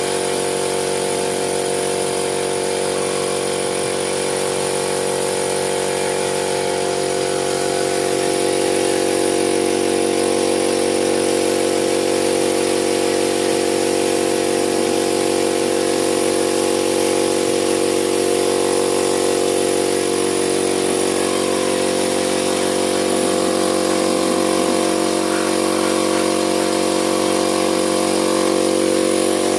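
A motor running steadily without a break, with a constant hum that gets slightly louder about eight seconds in.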